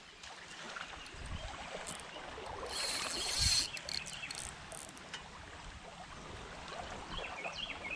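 Fast-flowing creek water running steadily, with a brief louder rush of water about three seconds in.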